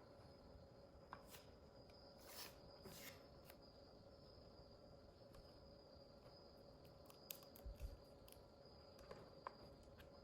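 Near silence: faint steady hum with a few soft clicks and taps scattered through, a small cluster of them near the end.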